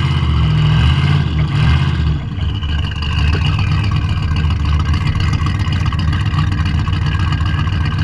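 A classic car's engine running hard, loudest in the first two seconds, then settling to a steadier, slightly quieter drone.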